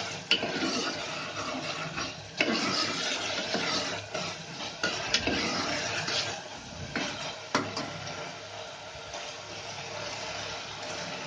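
Onions and ginger-garlic paste sizzling as they fry in an aluminium pressure cooker, stirred and scraped with a steel spatula that knocks against the pot a few times.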